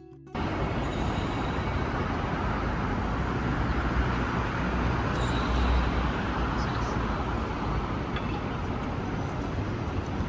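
Railway station ambience: a steady wash of noise with a deep rumble, starting abruptly just after the start as the music cuts off.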